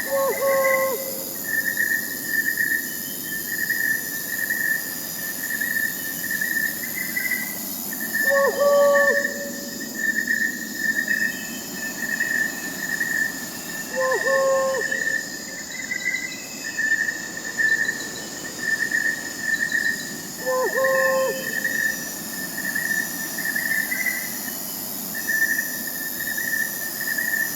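Crickets chirping in a steady pulsing chorus, with an owl hooting four times, about six seconds apart.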